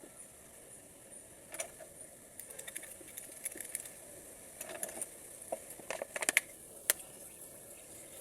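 Small metal parts clinking and tapping against each other and against hard surfaces in scattered light clicks, busiest and loudest in the second half.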